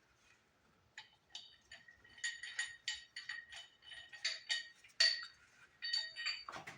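Small metal parts clinking and rattling against each other in an irregular run of sharp, ringing clinks, starting about a second in.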